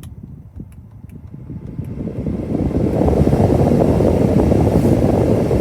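Car air-conditioning blower fan switched on: a few faint clicks, then a rush of air that builds over a couple of seconds to a loud, steady blow.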